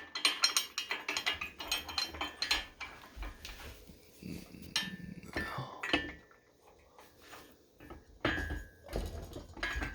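Steel engine-stand parts clinking and knocking together as they are shifted by hand to line up a bolt hole: a rapid run of clinks over the first few seconds, a few scattered ones after, and more near the end.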